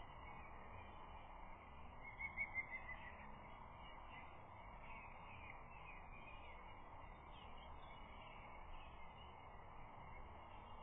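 Faint steady outdoor hiss, with a quick series of six or seven high notes from a bird about two seconds in.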